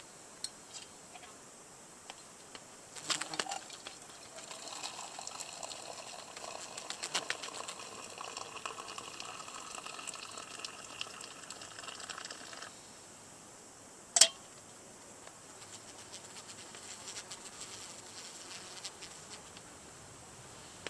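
Liquid pouring for about eight seconds, then stopping abruptly, with a short clatter just before it. About a second and a half later comes one sharp knock, the loudest sound, followed by lighter handling noises.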